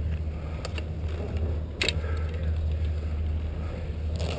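Skiing heard from a helmet or chest GoPro: a steady low wind rumble on the microphone and skis sliding over snow, broken by a few sharp clicks, the loudest about two seconds in.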